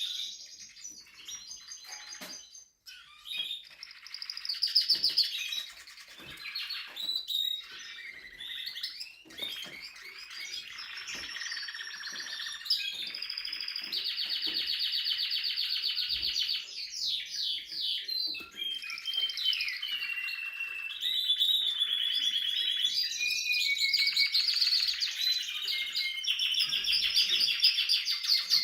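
Spanish Timbrado canary singing a long, continuous song of rapid trills and rolls, with a few brief pauses early on and long sustained trill passages later.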